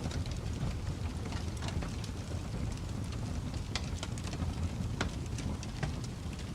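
Wood fire burning in a fireplace: a steady low rumble of flames with frequent small crackles and pops of burning logs.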